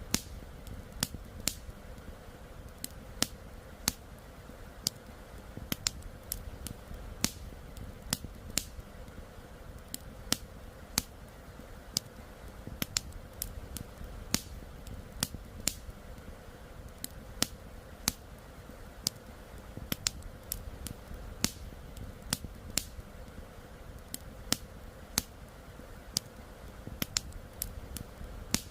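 Campfire crackling: irregular sharp snaps and pops, one to three a second, over a steady low rush of flowing river water.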